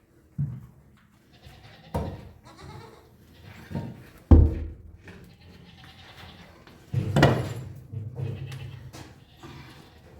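Livestock bleating in several separate calls. The loudest comes about four seconds in, and a longer one follows around seven seconds.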